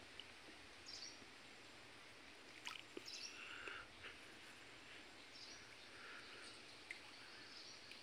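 Near silence in a mangrove forest: a faint steady hiss with a few short, faint bird calls scattered through and a couple of light clicks.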